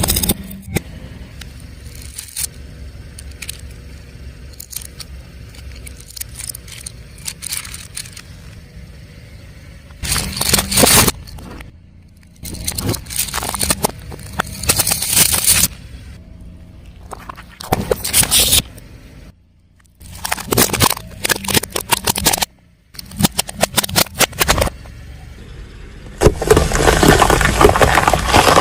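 Car tyres rolling slowly over objects and crushing them: a low rumble from the car, broken by several loud crackling, crunching bursts that grow longest near the end.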